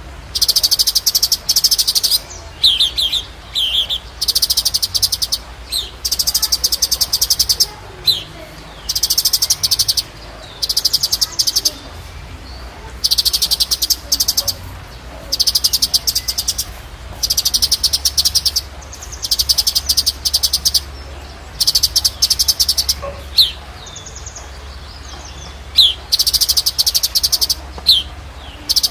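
Cucak cungkok singing: rapid, dense, high trilled bursts of about a second or more, repeated over and over with short gaps, mixed with a few short downslurred call notes. A steady low hum runs underneath.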